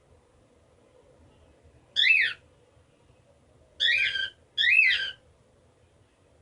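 Cockatiel giving three short whistled chirps, each rising then falling in pitch; the last two come close together.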